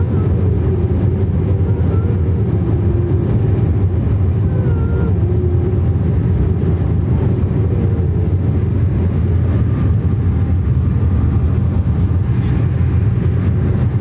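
Steady, loud, low rumble of an airliner's engines and airflow, heard from inside the passenger cabin.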